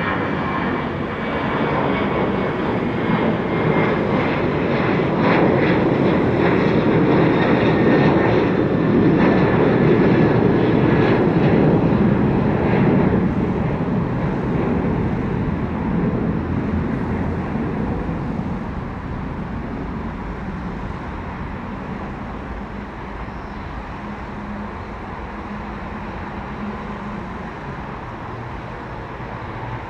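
Jet airliner engines on a departure climb-out: a broad roar with a faint high whine, building to its loudest about ten seconds in, then fading away through the second half.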